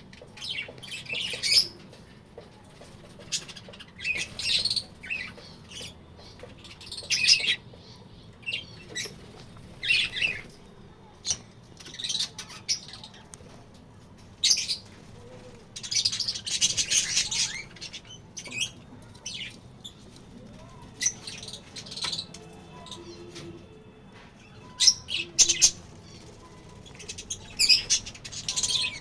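A colony of budgerigars chirping and chattering in short, irregular bursts every second or two.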